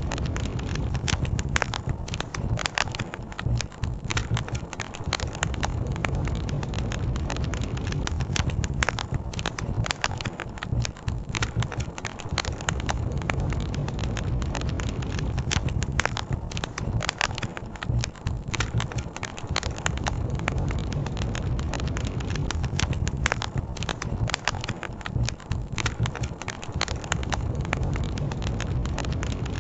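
Campfire crackling, with many sharp irregular pops and snaps, over a steady low rush of a flowing river.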